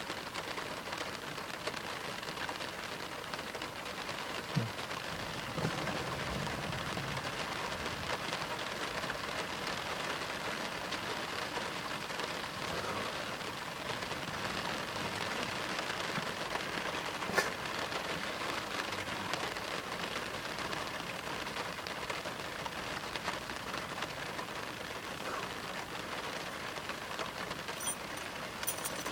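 Steady rain falling on a car's roof and glass, heard from inside the car, with one sharp tick about halfway through.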